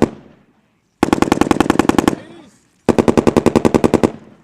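.50-caliber machine gun firing two long bursts of rapid shots, about a second each, with a reverberating tail dying away after each. The tail of an earlier burst fades at the start, and a new burst begins right at the end.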